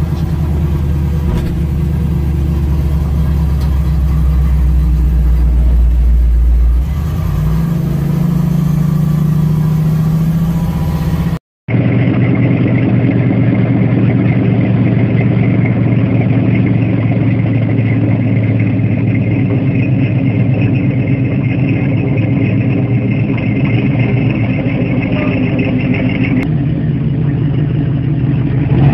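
LS-swapped V8 in a box-body Chevy Caprice running, first heard from inside the cabin as a steady low drone that shifts in pitch about seven seconds in. After a sudden cut it is heard from outside, running steadily, then revving up near the end as the car drives past.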